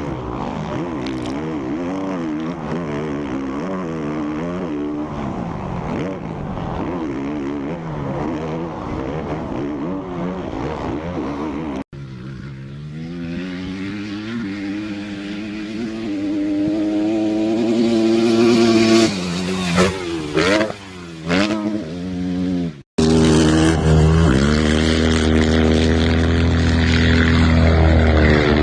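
Motocross and enduro bike engines revving hard, pitch climbing and dropping with throttle and gear changes. There are sudden cuts about twelve and twenty-three seconds in, and the last stretch holds at high revs.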